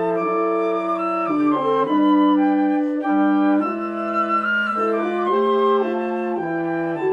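Military wind band playing slow, sustained chords that change about every second.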